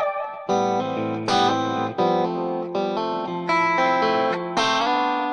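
Clean Stratocaster electric guitar on the neck pickup, boosted by an Xotic RC Booster pedal, playing a picked melodic line of single notes and chord stabs. The last chord is struck near the end and left ringing.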